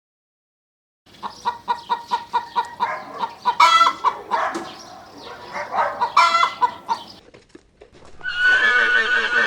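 Chickens clucking in quick runs of short calls, with two louder calls in between. Near the end a long, high animal call begins.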